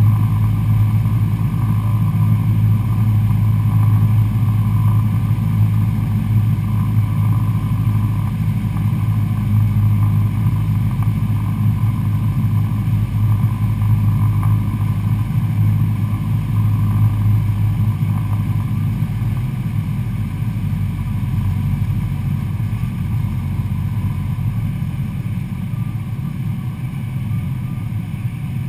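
Cessna 172SP Skyhawk's four-cylinder Lycoming engine and propeller running steadily in flight, a deep, even drone that gets a little quieter over the last third.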